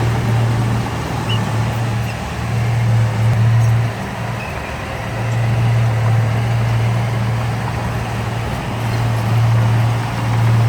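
Heavy diesel engine of earthmoving machinery running under load, a steady low drone that eases briefly about four seconds in and then picks up again.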